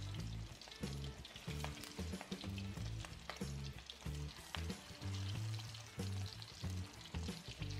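Raw meatballs shallow-frying in hot oil in a wok: a steady crackling sizzle with many small pops as more meatballs are dropped in. Background music with a bass line plays underneath.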